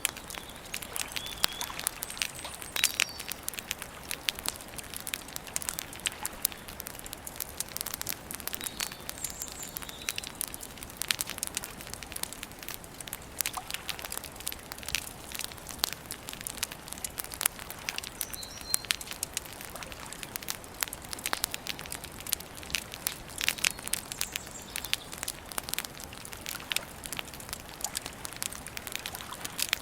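Wood campfire crackling, an irregular stream of sharp snaps and clicks, with a few short bird chirps in the background.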